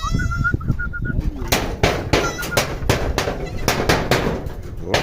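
Goat kids on a farm: a short high bleat right at the start. A bird's thin whistling call comes in the first second and again briefly around the middle. From about one and a half seconds on there is a run of rough, crackling noise bursts.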